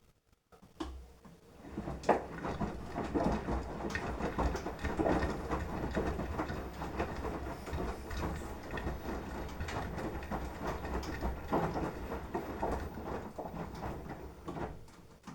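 Beko washing machine in its wash phase: the drum motor starts about a second in and turns the drum for some fourteen seconds, with wet laundry tumbling in irregular thuds and splashes, then stops just before the end.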